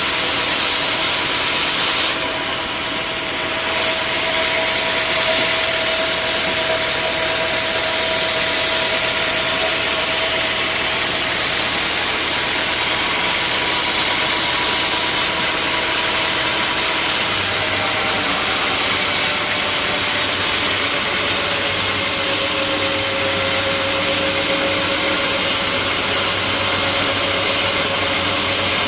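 Sawmill machinery running steadily: a loud, even motor noise with a faint hum whose pitch drops slightly about two-thirds of the way through.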